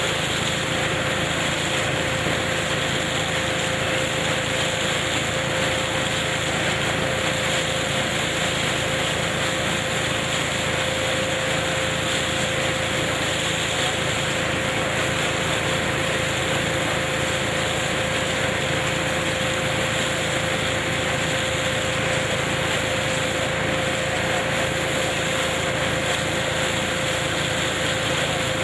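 Tractor-driven KF-501 hazelnut harvesting machine running steadily: an even mechanical noise with one steady tone through it.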